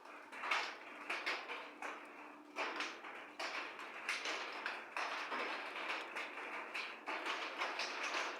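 Rain falling steadily, with irregular sharp taps of heavier drops striking a hard surface several times a second.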